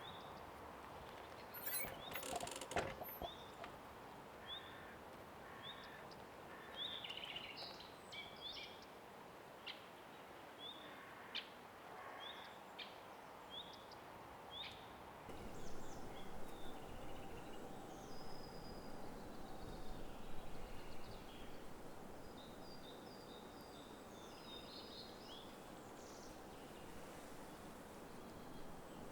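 Songbirds calling in spring woodland: one bird repeats a short rising chirp about once a second, then other, higher notes follow. A few sharp clicks come near the start. About halfway through a steady rushing hiss grows louder.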